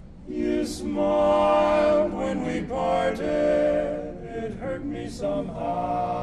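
Men's barbershop quartet singing a cappella in close four-part harmony, the chords starting about a third of a second in and held with changes of chord.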